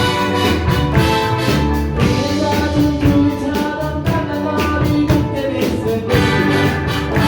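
A rock band playing a pop song: a drum kit keeps a steady beat under held chords, with some singing.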